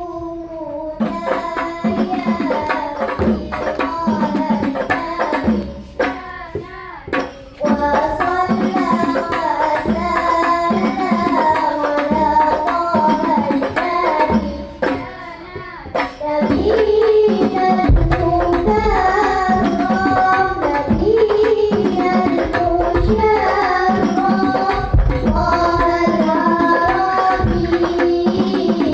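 Loud music played over a PA sound system: a singing voice over hand drums and percussion, with heavy bass coming in a little past halfway.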